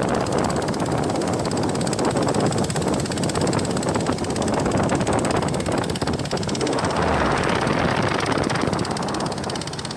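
A motorboat's engine running steadily at speed, with a dense, even rush of noise and no breaks.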